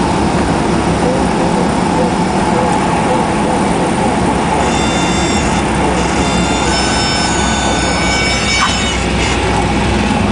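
Cessna 172's four-cylinder Lycoming engine and propeller running steadily during the landing. About halfway through, a high, steady tone with several overtones sounds for a few seconds, with a short break in the middle.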